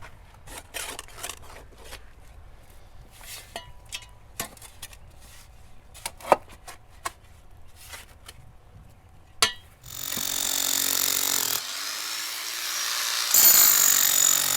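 Scattered scrapes and knocks from clearing around a buried sewer pipe. About ten seconds in, a power tool starts running loudly; it stops briefly and runs again near the end.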